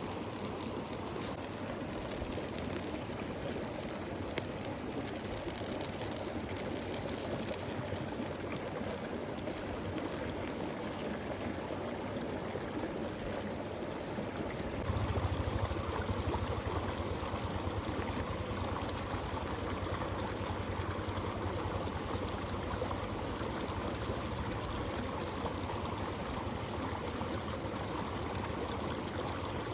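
A river flowing, a steady rush of water. About halfway through the sound turns deeper and fuller.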